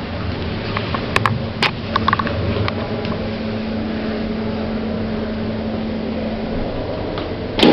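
Lift machinery running with a steady hum and a held tone that stops about two-thirds of the way through. A few light clicks come early on, and a single loud knock near the end.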